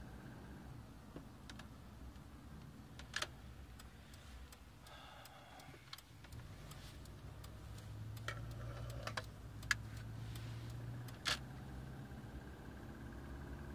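Subaru EJ25 flat-four engine running steadily after a few minutes of warm-up, with a knock that the owner is sure is piston slap in a low-mileage short block. A few sharp clicks stand out, about three seconds in and again near the end.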